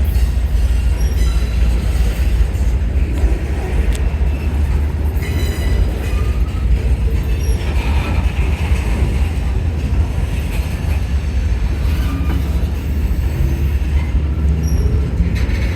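Freight train of flat cars rolling past: a steady heavy rumble of wheels on rail, with brief high wheel squeaks now and then.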